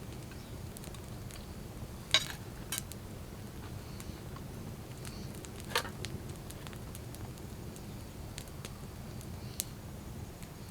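A few sharp clicks of a utensil against a plate while eating, the loudest about two seconds in and another near the middle, with many fainter ticks, over a steady low rumble.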